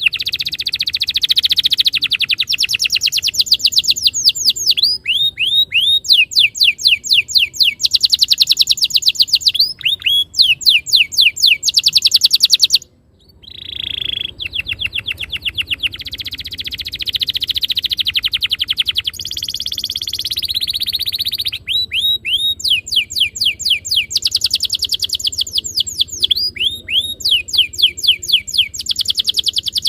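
Domestic canary singing: long rapid trills (rolls) alternating with runs of quick falling whistled notes, broken once by a short silence about 13 seconds in.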